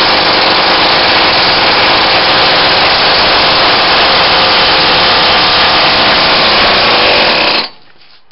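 Small two-stroke weed-trimmer engine with a homemade J-B Weld epoxy cylinder, running loud and steady at high revs, then cutting out abruptly near the end. The owner fears the run got hot enough to melt the epoxy cylinder.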